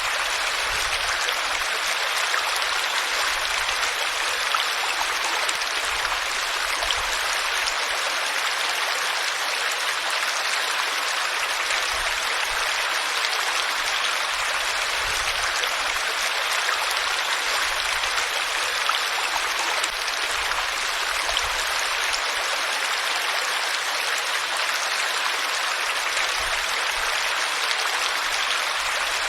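Flowing water running steadily, an even rushing splash.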